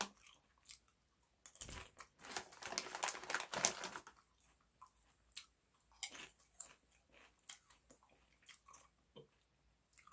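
Thin, crispy shrimp chips being bitten and chewed close to the microphone. A dense run of crunching comes about two to four seconds in, then lighter, scattered crunches as the chewing slows.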